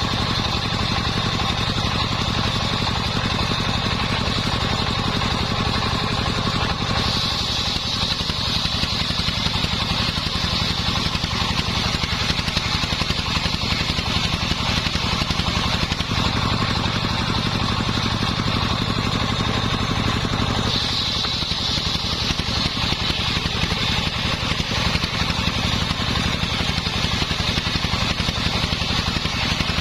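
Homemade engine-driven circular saw running steadily. Its tone shifts about 7 seconds in and again around 21 seconds, with a higher hiss or whine coming and going.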